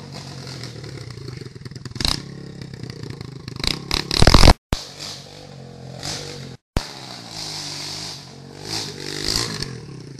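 125/140 cc pit bike engine running and revving, with loud clattering and scraping knocks about two seconds in and a louder cluster of them around four seconds in.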